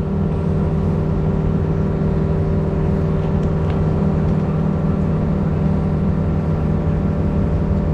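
Small excavator's diesel engine running steadily at a constant speed, heard from the operator's cab.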